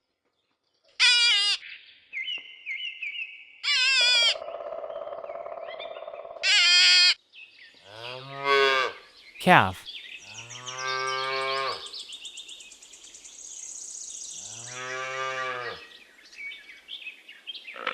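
A calf mooing: three drawn-out, low-pitched bawls in the second half. High-pitched wavering squeals come first.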